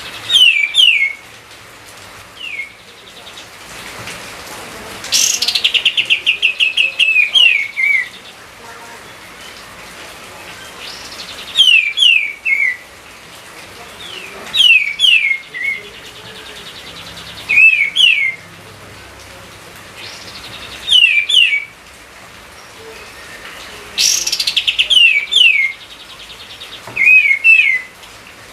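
A songbird singing loud, repeated phrases of quick downslurred whistles every few seconds, twice led by a fast rattling trill.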